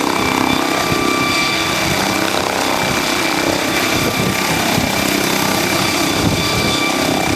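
MD 902 Explorer twin-turbine helicopter running, its rotor beating rapidly under a steady high turbine whine.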